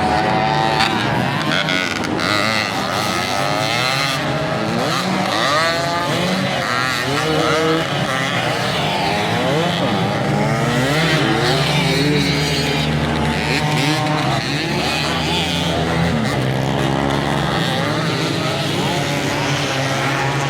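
Several dirt bikes racing together, their engines revving up and down and overlapping as they accelerate and shift.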